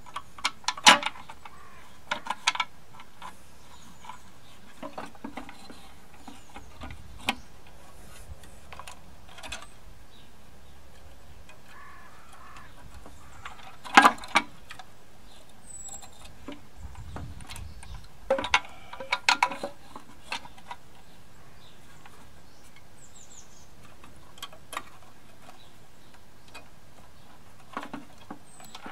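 Scattered clinks and knocks of small metal parts and hand tools being handled while a lawn mower engine's mounting bolts and spacer are fitted, with quiet stretches between. The loudest knock comes about halfway through, followed shortly by a short cluster of clinks.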